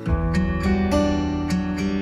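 Background music: acoustic guitar plucking notes at about three a second, with a deeper bass coming in at the start.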